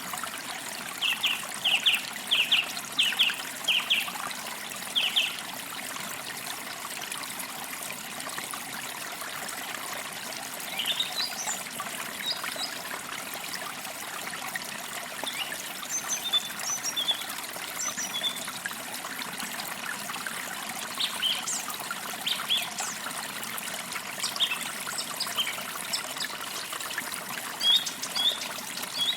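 Forest stream trickling steadily, with songbirds singing over it: a quick run of chirps in the first few seconds, then scattered chirps and short phrases from about a third of the way in.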